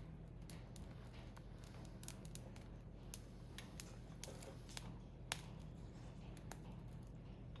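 Firewood burning in a Picogrill fire pit, crackling with irregular small pops and one sharper pop about five seconds in.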